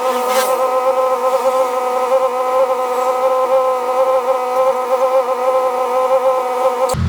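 Steady machine buzz at one unchanging pitch.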